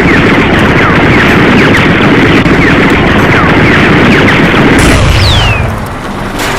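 Loud battle sound effect: a dense roar of gunfire and explosions with many short falling whistles, which stops about five seconds in and is followed by a single falling whistle.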